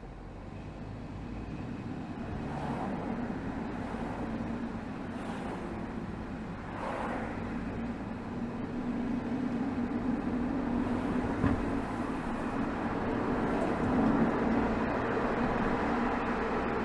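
Exhaust of a BMW 320xd's 2.0-litre four-cylinder turbodiesel (B47D20) under way in city traffic: a steady low drone with road noise, growing louder over the first few seconds. Two brief whooshes pass about 3 and 7 seconds in.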